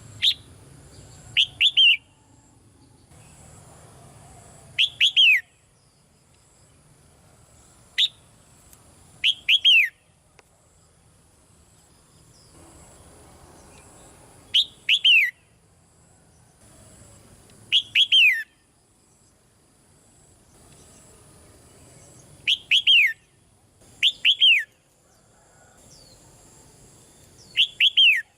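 Red-whiskered bulbul calling: short, bright phrases of quickly falling notes, about nine or ten of them, repeated every two to four seconds.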